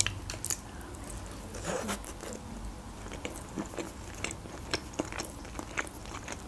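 Close-miked chewing of a bite of shortcrust quiche with a creamy mushroom-and-chicken filling: small irregular crunches and clicks.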